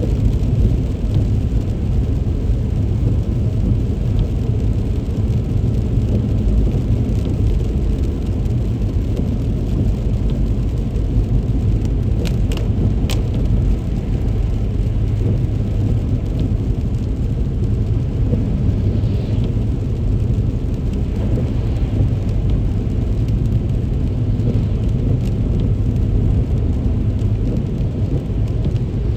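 A car driving through heavy rain: a steady low rumble of road and rain noise. Two short ticks come about twelve and thirteen seconds in.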